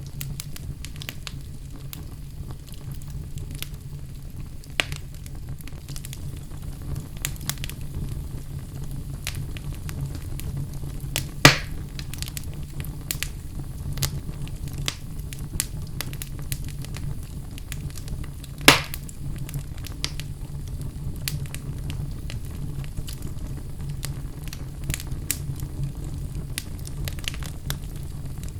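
Fire burning in a fireplace: a steady low rumble of flames with scattered crackles throughout and two loud pops, one about eleven seconds in and another about seven seconds later.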